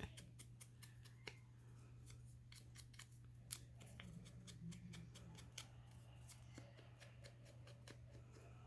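Faint, irregular scratchy clicks of scissors working paper, distressing the edges of a paper butterfly.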